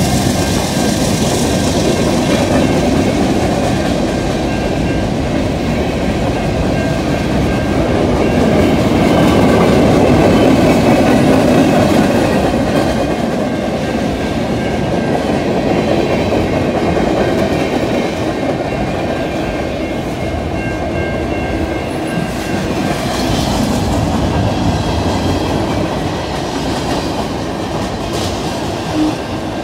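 Freight train cars rolling steadily past at close range, a continuous rumble of wheels on rail.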